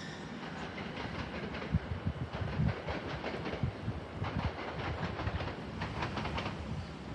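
NJ Transit commuter train running away into the distance, its wheels clattering on the rails. Irregular low thumps on the microphone are louder than the train at times.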